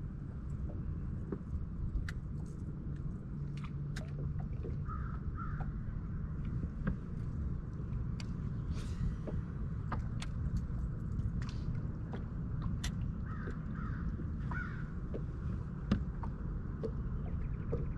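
Bird calls, two short ones about five seconds in and three more near the end, over a steady low rumble with scattered light clicks.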